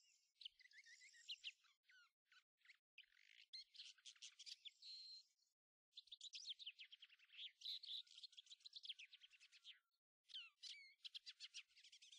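Faint birdsong: small songbirds chirping and trilling in quick, dense runs, broken by a few short pauses.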